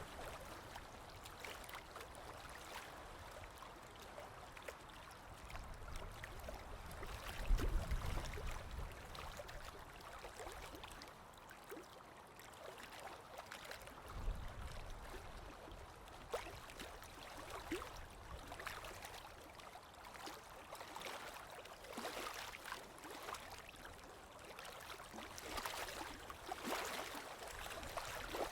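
Sea waves washing in: a continuous wash of water full of small crackles, with a low surge about seven seconds in and another shorter one around fourteen seconds.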